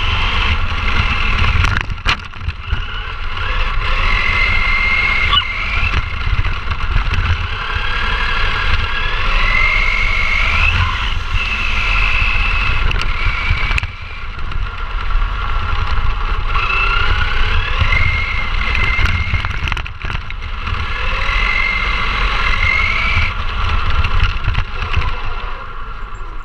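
ECX Ruckus 4x4 RC monster truck's electric motor and gears whining, rising in pitch each time it accelerates, several times over, on top of a heavy low rumble.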